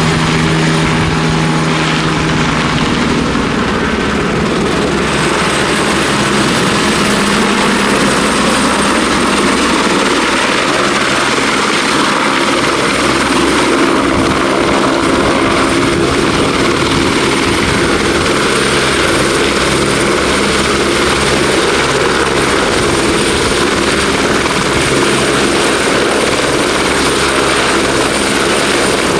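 Turbine helicopter running close by: steady, loud rotor noise with a high turbine whine held throughout. A lower hum at the start fades away within the first few seconds.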